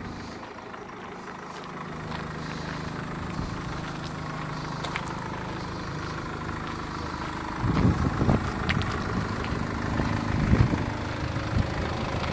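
SsangYong Actyon's engine idling, a steady hum that grows a little louder about two seconds in as the front of the car is approached. In the second half, irregular low thumps from footsteps on gravel come over it.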